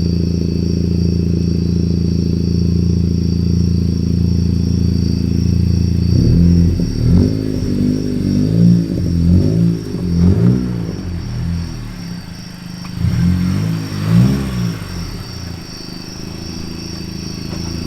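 Honda Civic Si's turbocharged four-cylinder through a MAP cat-back exhaust, idling steadily, then from about six seconds in revving up and down several times as the car pulls away. The revs rise and fall again about thirteen seconds in, then settle to a steadier, quieter note.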